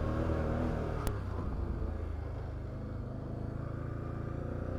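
Can-Am Outlander 850 XT ATV's V-twin engine running at a low, fairly steady speed, with a single sharp click about a second in.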